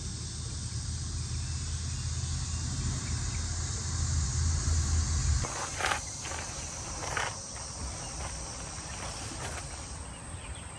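Steady high chirring of insects, with a low rumble underneath that cuts off suddenly about halfway through, followed by a few faint knocks.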